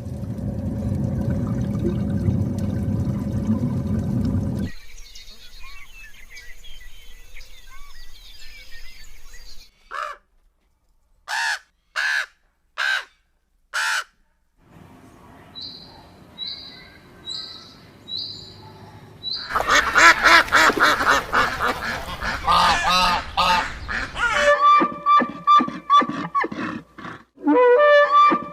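A succession of different animal calls, several of them bird calls: first a low rumbling stretch, then five short sharp calls, a row of short high chirps, and a loud dense chorus of calls followed by rhythmic repeated calls near the end.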